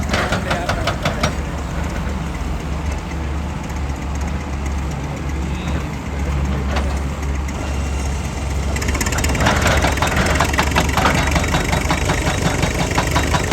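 Heavy machine's diesel engine running with a steady low hum. About nine seconds in, a fast, even knocking starts and the sound gets louder.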